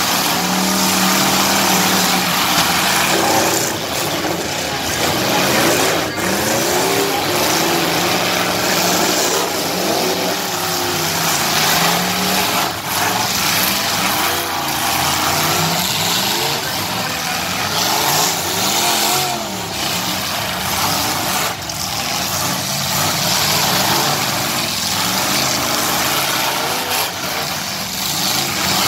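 Demolition derby cars, SUVs and trucks revving their engines hard, the pitch rising and falling as several run at once, with a number of sharp crashes as the vehicles ram each other.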